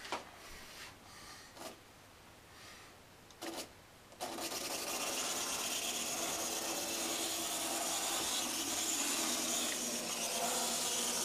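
Märklin mini-club Z gauge model train starting abruptly about four seconds in and then running steadily: a small electric motor whirring under a rasping rattle of tiny wheels on the track. A few faint clicks come before it.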